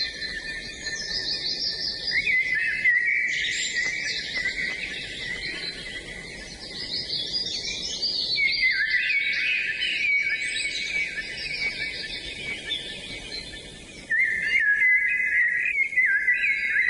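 Several songbirds singing at once, a dense chorus of overlapping whistled phrases, trills and chirps. It gets abruptly louder about fourteen seconds in.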